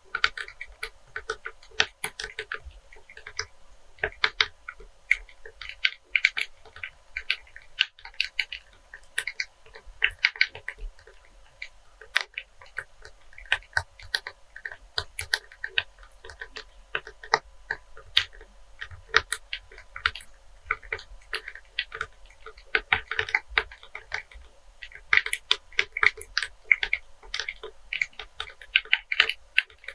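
Fingernails tapping quickly on a cleaning-wipes container, in uneven flurries of sharp clicks several per second.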